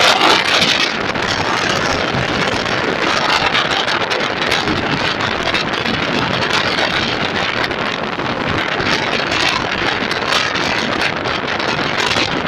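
Express passenger train passing close at speed: a loud, steady rush of wheels on rail and rattling coaches, with wind buffeting the microphone.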